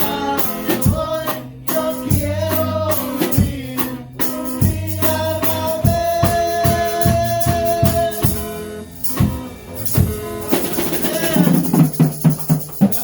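Live worship music with drum kit, tambourine and singing, including a long held note in the middle, closing with a quick run of drum hits near the end.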